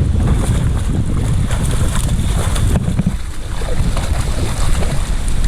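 Wind buffeting the microphone in a steady low rumble, with water splashing and lapping around a canoe.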